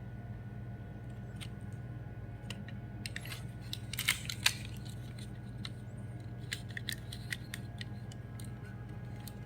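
Small clicks and light knocks from a plastic 1/32 scale slot car being handled and turned in the fingers, bunched in a flurry around the middle, over a steady low room hum.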